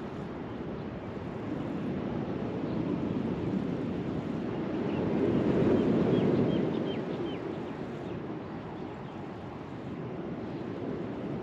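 Wind buffeting the microphone over the rush of surf on a beach: a steady noise that swells about halfway through and then eases off.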